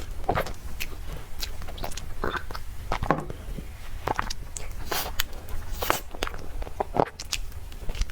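Close-miked eating: a person biting and chewing soft dessert, with irregular mouth clicks and smacks over a steady low hum.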